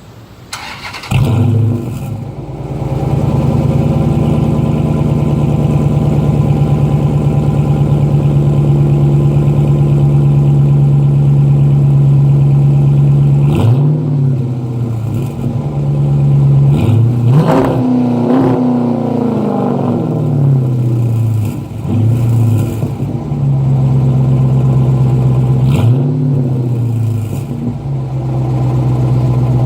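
2012 Dodge Charger R/T's 5.7-litre HEMI V8 through a dual Flowmaster exhaust, starting up about a second in and settling into a steady idle. Midway it is revved in several throttle blips, the biggest a longer rev that falls back to idle, with a last blip near the end.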